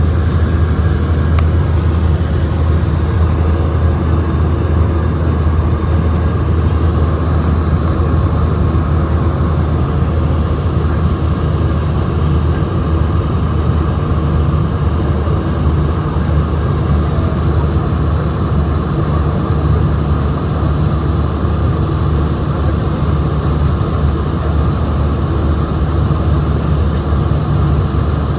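Steady cabin noise aboard an Airbus A220-100: the low, even hum of its Pratt & Whitney PW1500G geared turbofans mixed with a rush of air, with no sudden changes.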